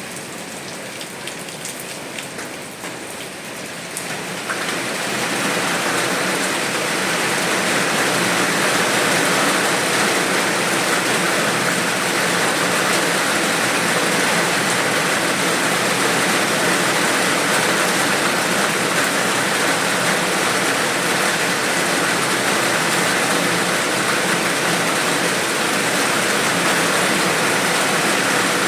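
Rain falling, at first lighter with separate drops audible, then about four seconds in swelling to a heavier, denser downpour that holds steady.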